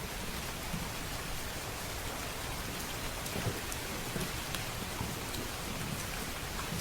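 Steady rain, with a low rumble underneath and scattered small sharp crackles.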